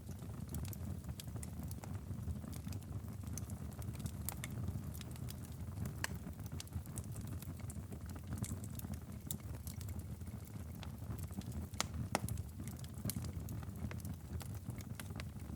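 Wood fire in a fireplace crackling, with a steady low rumble of burning and irregular sharp pops and snaps, the loudest about twelve seconds in.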